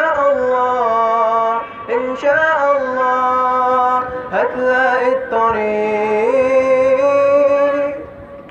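A man singing the closing melisma of an Arabic nasheed: long held notes that step in pitch, rise about six seconds in, then fade out near the end.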